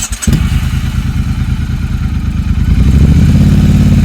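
Motorcycle engine running under way, with a fast, even firing pulse. It gets louder about three seconds in.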